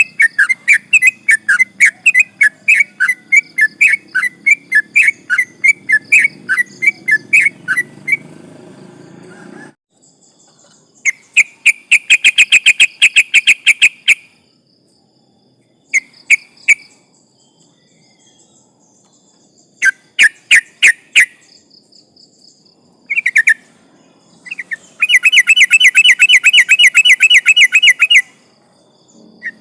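Yellow-vented bulbul singing: a run of quick, loud whistled notes, about three a second, for the first eight seconds, then after a pause several bursts of fast rattling trill, the longest near the end. A faint low hum sits under the first ten seconds.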